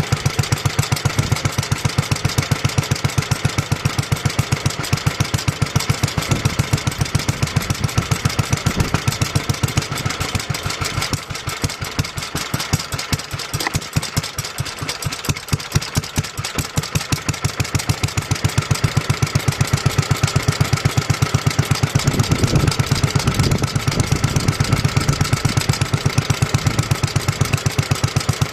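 1954 Petter A1 single-cylinder stationary engine running steadily, a fast, even train of firing beats. The beats soften for a few seconds around the middle, then return to full strength.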